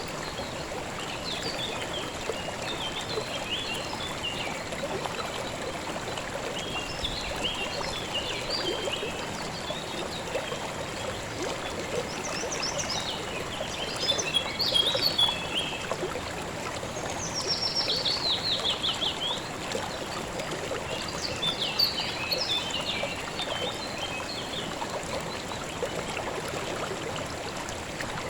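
A shallow river or creek running steadily over rocks. Songbirds chirp in short bursts over it, with one quick falling trill about two-thirds of the way through.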